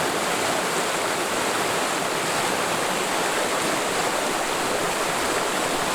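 Mountain stream in a forest valley flowing steadily over rocks, a continuous rushing splash with no breaks.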